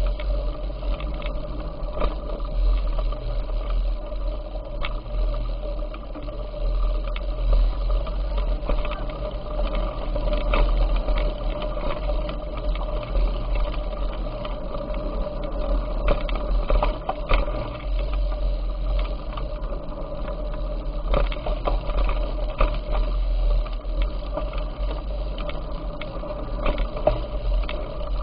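Bicycle being ridden, heard from a camera carried on the ride: a steady low rumble of wind and road on the microphone, with frequent small rattles and clicks.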